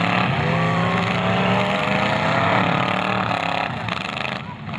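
Several demolition derby cars' engines revving and running at once, their pitch rising and falling as the cars push against each other in the mud.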